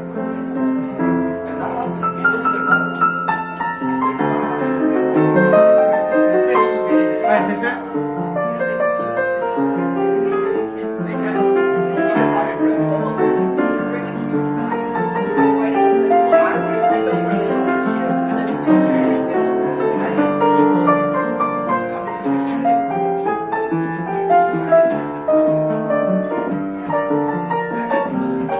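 Live jazz piano playing a standard, continuous chords and melody, with bar patrons' chatter underneath.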